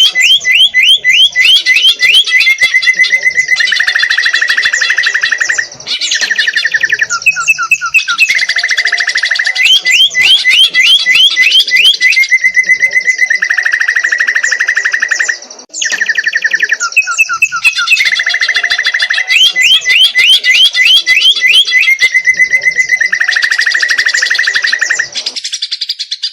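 A cucak ijo (green leafbird) singing loudly in fighter style. Bursts of quick rising chirps alternate with a fast, even trill, and the same phrase comes round about every nine to ten seconds. The song is filled with learned canary and sparrow phrases.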